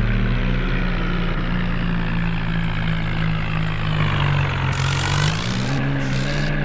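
Tractor engine running steadily. Its pitch dips about four seconds in and picks back up near the end, and a hiss comes in about five seconds in.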